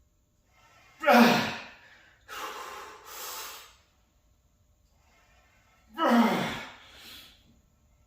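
A man breathing hard through the reps of a heavy cable tricep extension set: two loud forceful exhales about a second and six seconds in, each followed by quieter, rushing breaths.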